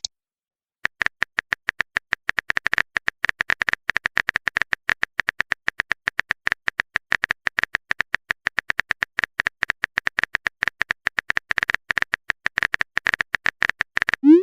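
A rapid, irregular run of keyboard typing clicks, the typing sound of a text-chat story, starting about a second in and running on.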